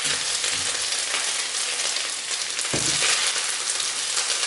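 Sautéed rice with chorizo sizzling steadily in a hot non-stick pan as it is scooped out with a wooden spoon. One dull knock comes a little under three seconds in.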